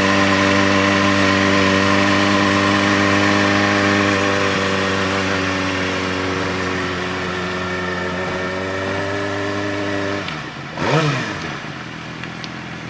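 A steady, even-pitched engine hum that gets quieter about four seconds in and stops about ten seconds in, followed by a brief sound that sweeps up and down in pitch.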